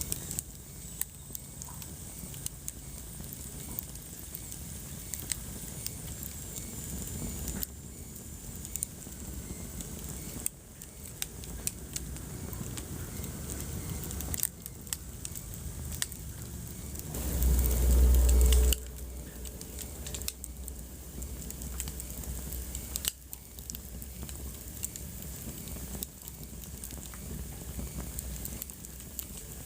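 Wood fire in a fireplace crackling, with frequent sharp pops and snaps over a steady low rumble of the flames. About seventeen seconds in, a louder low rumble swells for about a second and a half.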